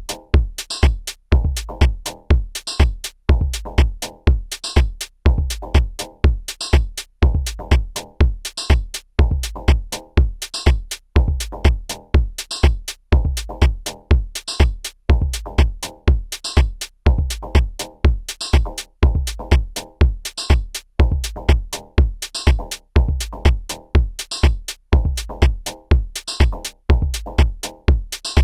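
Korg drumlogue drum machine playing a looping electronic drum pattern: a kick about twice a second with hi-hats ticking between, over a pitched part.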